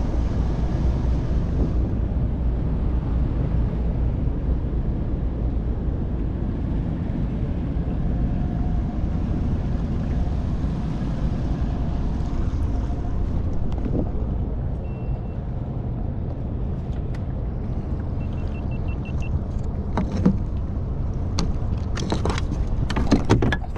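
Motorboat engine running with a steady low rumble as the boat moves along; a few sharp knocks come near the end.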